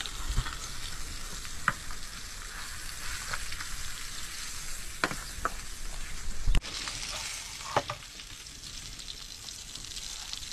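Food sizzling in hot oil in a metal frying pan, a steady hiss, with several sharp metallic clinks of a slotted spoon against metal, the loudest about six and a half seconds in.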